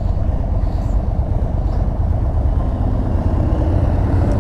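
Indian Chief Bobber Dark Horse motorcycle's V-twin engine running steadily while being ridden, under a heavy low rumble.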